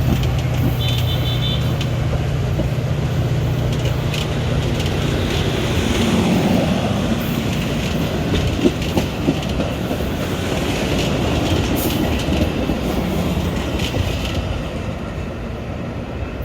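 Metra commuter train in motion: a steady low hum for the first few seconds gives way to an even rail rumble with a few light clicks.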